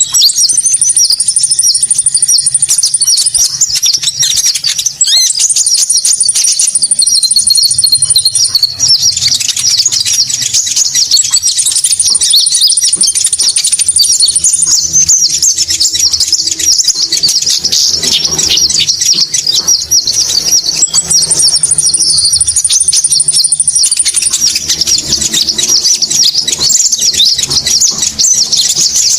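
Konin bird lure calls: a dense, unbroken run of high chirps, with a long, even, high trill held for about three seconds that comes back four times.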